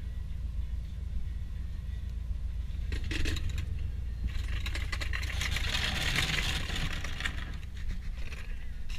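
Light metallic clinking and scraping over a steady low rumble, with a longer stretch of hissing, scraping noise from about four to seven seconds in.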